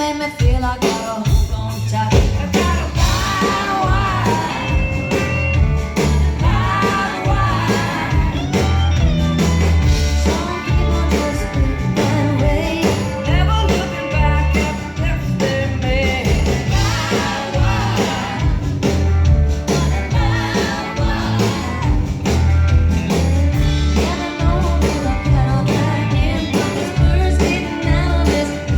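Live rock band playing, with women singing the melody over a steady bass and drum beat.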